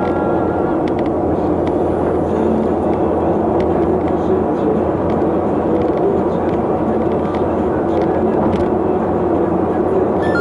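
Steady road and engine noise of a moving vehicle heard from on board, an even rushing sound with a few faint clicks.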